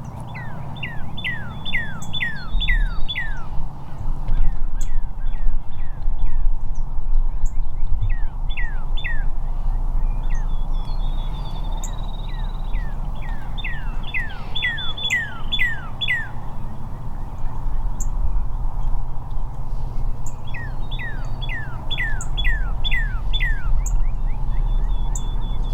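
Wild songbird singing in three runs of quick, clear notes that each slide downward, with a thin high trill between the runs, over a steady low rumble.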